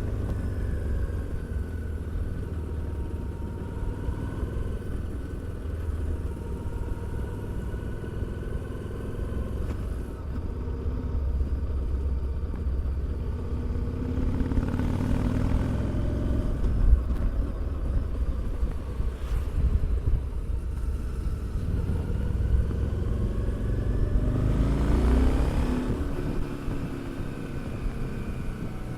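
Harley-Davidson Street 750's liquid-cooled V-twin running under way, a deep exhaust note that climbs and falls as the bike accelerates twice, once around the middle and again near the end, then settles lower.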